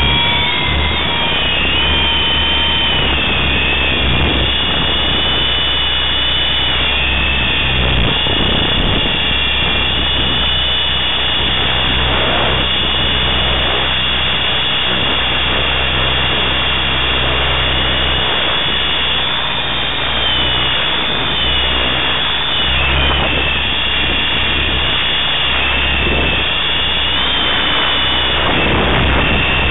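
T-Rex 500 electric RC helicopter in flight: a high motor-and-gear whine, with rotor noise and a low hum underneath. The whine glides up and down in pitch several times as the throttle changes.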